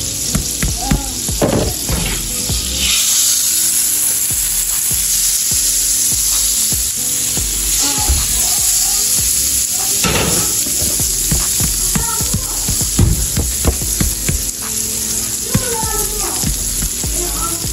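Pancakes sizzling in butter on a hot griddle, with a metal spatula scraping and tapping against the griddle now and then.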